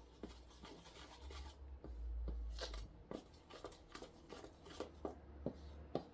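Small objects being handled: irregular light clicks and knocks with some rustling, over a faint low rumble.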